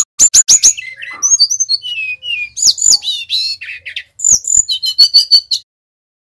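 Brown-chested jungle flycatcher singing: a quick run of sharp chips, then a varied phrase of high whistles gliding up and down, and after a brief pause a fast run of repeated notes that stops near the end.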